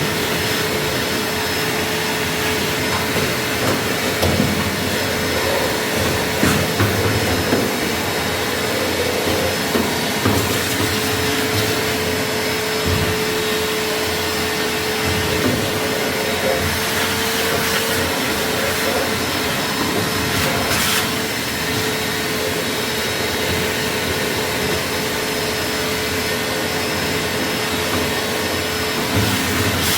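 A motor-driven machine running steadily with a rushing-air sound and a constant hum, with scattered knocks and clatters, mostly in the first half.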